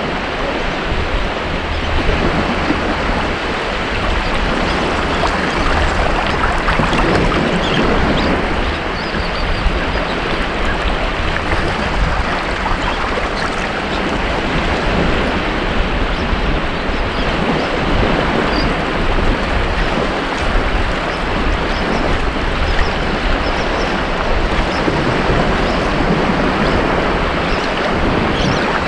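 Ocean surf washing onto a beach, a steady, continuous wash with gentle swells and a low rumble beneath it.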